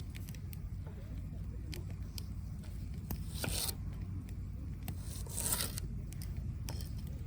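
Two brief scraping, tearing noises, about three and five seconds in, with a few light clicks, over a steady low rumble.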